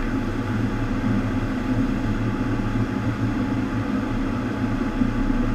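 FlowRider surf machine running: a steady rush of water sheeting over the ride surface, with a constant low hum from its pumps.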